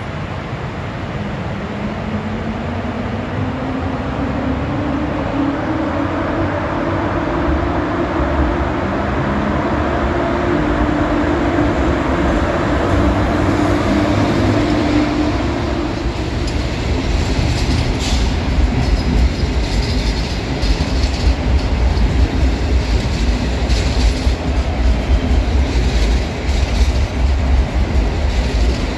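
EP07P electric locomotive passing close, with a hum that slowly rises in pitch as it gathers speed. About halfway through it gives way to the passenger carriages rolling by: a heavy low rumble with clattering and clicks from the wheels over rail joints.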